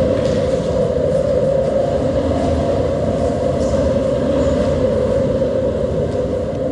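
Loud, steady rumbling noise with no distinct strikes or beats, easing slightly near the end.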